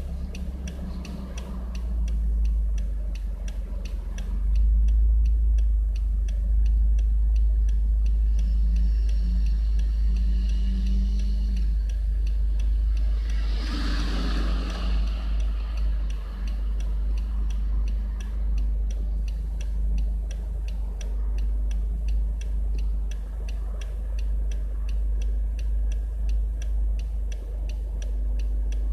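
Subaru Legacy BL5 GT's turbocharged flat-four engine and exhaust running with a low, steady drone while driving, under a regular ticking. The drone gets louder about four and a half seconds in, and a brief rush of noise comes through near the middle.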